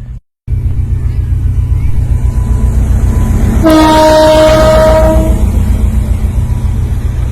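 A train running with a loud, steady low rumble. About halfway through, its horn sounds once, a single steady tone lasting about a second and a half.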